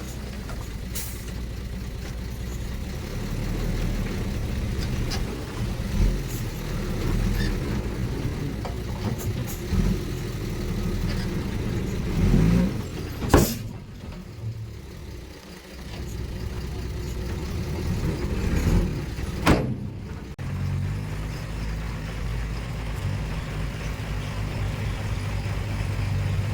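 Diesel engines of heavy earthmoving machinery running steadily, with two sharp bangs about halfway and about twenty seconds in. The engine note turns steadier after the second bang.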